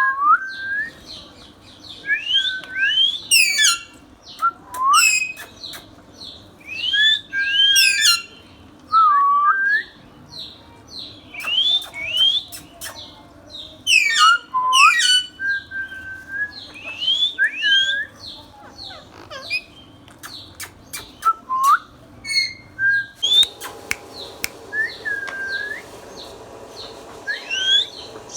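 Ringneck parakeet whistling and calling: repeated rising and falling whistles mixed with sharp, high chirps, in bursts every second or two, with a quieter stretch about two-thirds of the way through.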